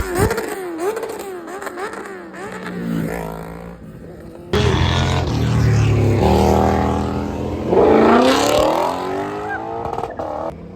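Car engines revving at a car meet, their pitch rising and falling several times. About four and a half seconds in the sound switches abruptly to a louder engine, which revs up sharply near the eight-second mark.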